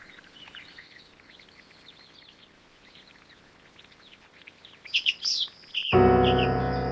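Wild birds chirping and calling, many short notes, fairly faint at first, with louder calls about five seconds in. Near the end, music with sustained keyboard chords comes in suddenly and louder than the birds.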